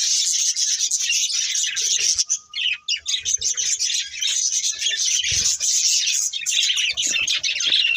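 Budgerigars chattering and chirping continuously in a rapid, warbling stream, with a short break about two and a half seconds in. A few faint low knocks come about five seconds in.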